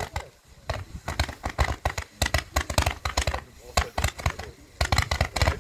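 Fireworks display: a rapid, irregular run of sharp bangs and crackles, several a second, growing denser about five seconds in.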